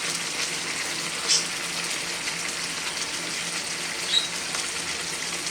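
Chicken pieces cooking in a pot on medium heat with no added liquid: a steady sizzle with faint crackles, and a brief sharper sizzle about a second in.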